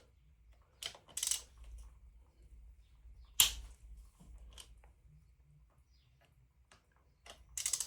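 Bolts being broken loose one at a time: short, sharp metallic cracks a second or two apart, the loudest about three and a half seconds in, with a quick run of clicks near the end.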